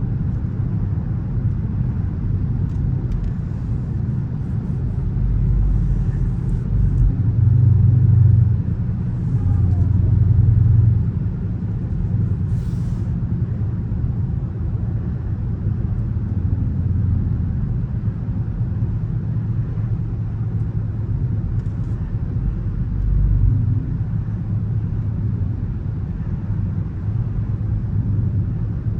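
Dodge Charger R/T's 5.7-litre HEMI V8 engine and exhaust rumbling while the car is driven, swelling louder under acceleration a couple of times about a quarter of the way in and once more near the end.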